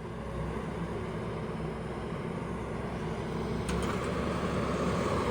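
Engine of heavy equipment running steadily and growing slightly louder, with a faint click about three and a half seconds in.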